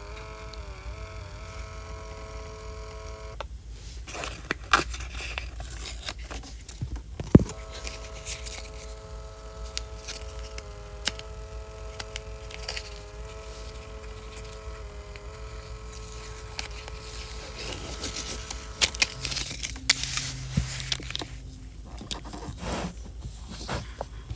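Small thermal sticker printer printing: its motor whines in a few steady pitches that wobble and step, in two stretches, the second lasting about eleven seconds. Sharp clicks and paper crackling come between and after the printing.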